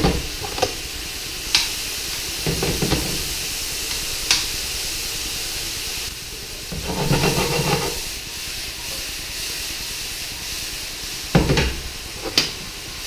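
Pepper root sizzling in hot oil in a frying pan, a steady hiss as the moisture on it meets the heat, with a few sharp knocks and scrapes of a utensil against the pan.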